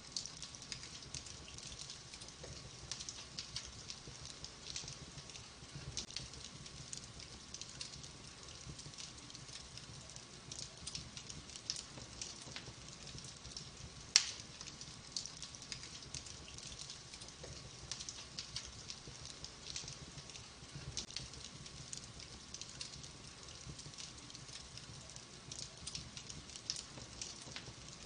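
Wood fire burning, the logs crackling with frequent small ticks and snaps over a soft hiss, and one sharp, louder pop about halfway through.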